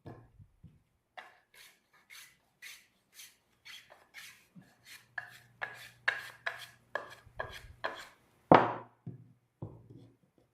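A hand tool worked over Japanese cedar (sugi) in short repeated strokes, about two a second and quickening to about three a second, followed by one loud knock about eight and a half seconds in.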